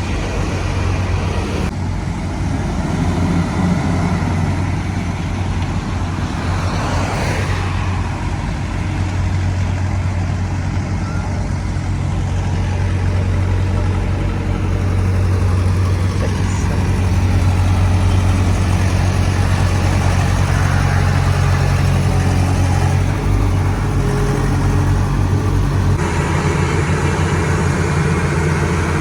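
Heavy road-construction machinery running with a steady low engine hum, and the mechanical noise changing abruptly a few times.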